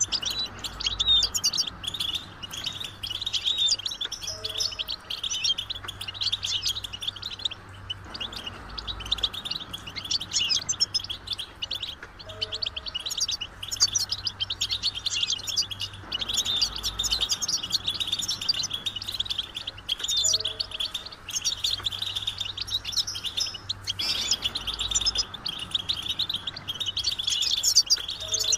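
European goldfinches twittering and chattering in a dense, unbroken run of rapid high chirps, as a group of birds calling together. The same stretch of calls repeats about every eight seconds.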